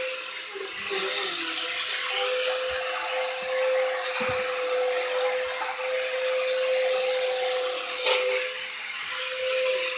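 Vacuum cleaner running steadily: a constant motor whine over a rushing hiss, with one short knock about eight seconds in.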